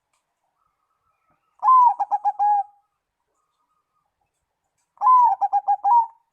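Zebra dove (perkutut) cooing twice, each phrase about a second long: a first note that rises and falls, followed by a quick run of short notes. The second phrase comes about two seconds after the first ends.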